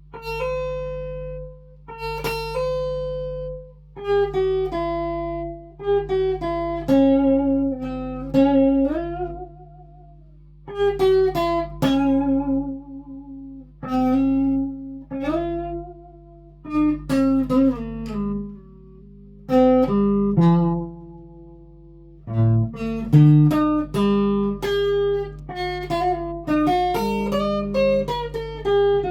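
Guitar playing an instrumental passage of picked single notes and short chords, each ringing and fading, with a few notes bent in pitch. A steady low hum runs underneath.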